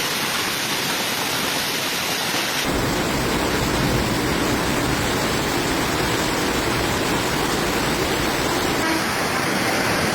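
Steady rushing noise of a heavy rainstorm, changing abruptly about two and a half seconds in and again near the end, the middle part deeper and rougher.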